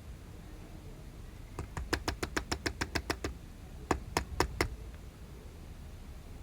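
A fast run of about a dozen sharp clicks, about seven a second, then four more clicks after a short pause.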